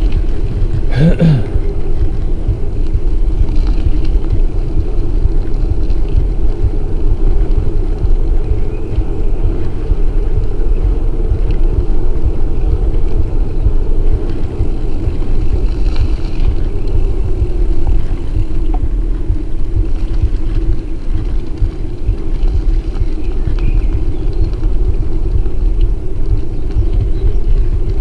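Riding a HARO bicycle: steady tyre rumble and wind buffeting the microphone, with a brief sharp sound about a second in.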